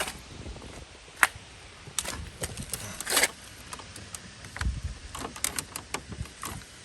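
Scattered sharp clicks and light knocks from the Firebird's headlight switch being worked by hand, the sharpest click about a second in, a short rasp around three seconds, and a quick run of clicks near the end. The owner takes the switch for faulty.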